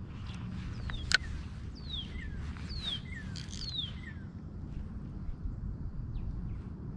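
A bird calling: four whistled notes, each sliding quickly downward, given about once a second, over a steady low rumble. A single sharp click sounds about a second in.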